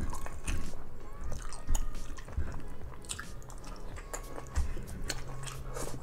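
A person chewing and biting grilled squid close to the microphone: many short wet mouth clicks and smacks, with a few low thumps of jaw and bite.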